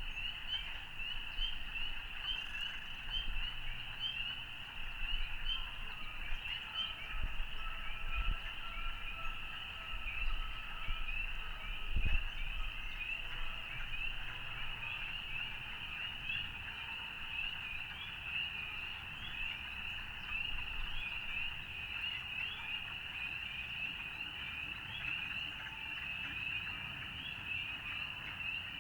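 A dense chorus of many small frogs calling at once, short high notes repeating without a break, over a low distant rumble, with a single soft thump about twelve seconds in.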